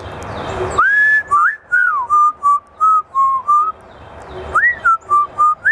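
African grey parrot whistling a tune: a long rising note followed by a run of short clear notes, then the phrase starts again near the end.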